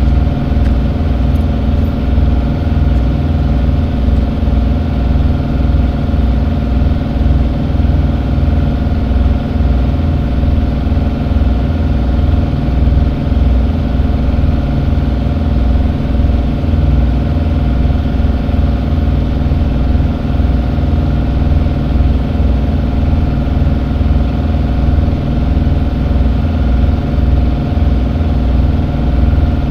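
A vehicle engine idling steadily, a constant low rumble with an unchanging hum.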